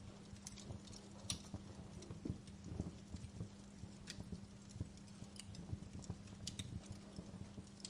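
Wood fire crackling in a fireplace: irregular sharp snaps and pops, several a second and uneven in loudness, over a low rumble of burning and a steady low hum.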